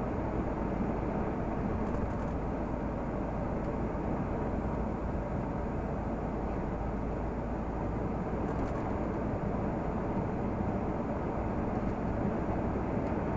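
Renault Magnum 480 truck's six-cylinder diesel engine running steadily under way, with road noise.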